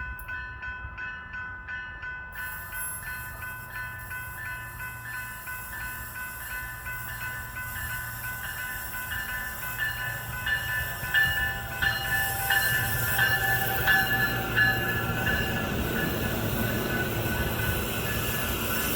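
Grade-crossing warning bell ringing in a steady, rapid repeat as an RTD Silverliner V electric commuter train approaches. The train's rumble and wheel noise grow louder from about two-thirds of the way through.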